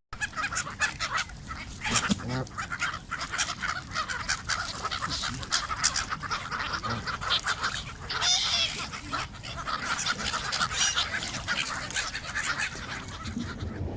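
A flock of birds calling, many short overlapping calls in a steady chatter, with one louder call about eight seconds in.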